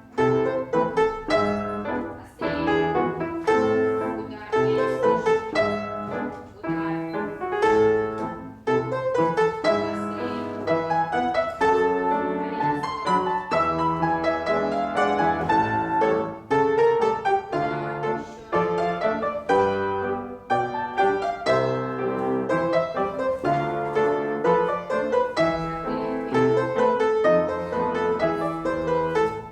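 Piano playing classical-style accompaniment for a ballet class exercise: a steady run of struck notes and chords.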